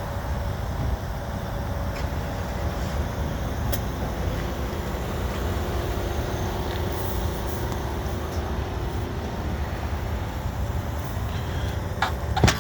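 Steady low rumble of a large motor vehicle running nearby, with a faint steady tone above it.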